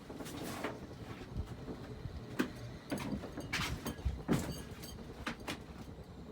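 SMC A-52 ceiling fan running at high speed with a steady buzz. Over it come irregular knocks and rustles, the loudest about two and a half and four and a half seconds in.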